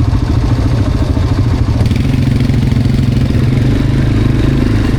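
Quad bike engine running under way, a steady low engine note whose pitch shifts slightly about two seconds in.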